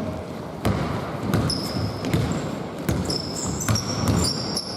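Basketball dribbled on an indoor court, a bounce roughly every 0.7 s, echoing in the hall, with short high-pitched sneaker squeaks on the floor.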